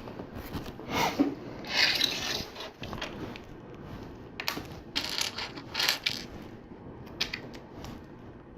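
Loose LEGO plastic pieces clattering and clicking as they are picked through and pressed together, a handful of short, sharp clicks and brief rattles.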